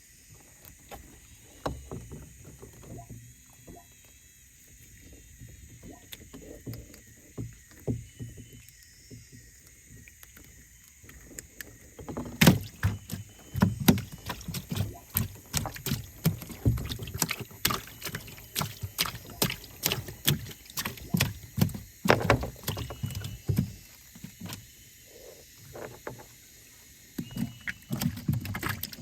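Knocking and clattering in a small wooden river boat as the fisherman works the net and paddles: a few scattered knocks at first, then from about twelve seconds in a dense, louder run of irregular knocks. A steady high hiss runs underneath throughout.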